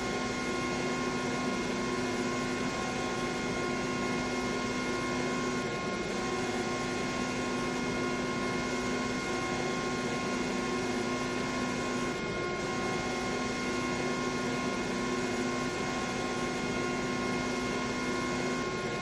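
CNC milling machine running a high-feed milling cutter: a steady hum and hiss with several constant tones. About six and twelve seconds in, and again near the end, the low tone drops out for a moment.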